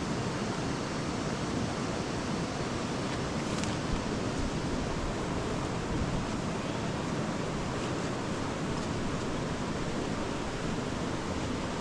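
Steady rushing of a flowing river, with a couple of faint clicks.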